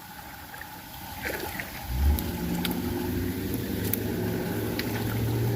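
A motor engine runs with a steady, low, even hum. It comes up about a second and a half in and holds on.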